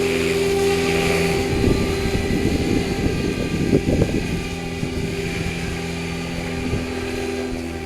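Goosky RS5 electric RC helicopter's motor and rotor running with a steady hum, with wind buffeting the microphone in a rumbling gust from about one and a half to four and a half seconds in.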